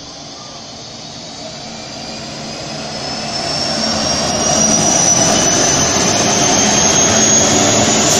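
Diesel freight locomotives hauling grain hopper wagons pass close by. The engine and wheel noise grows louder over the first five seconds and then holds steady as the locomotives go past. A high whine rises slowly in pitch throughout.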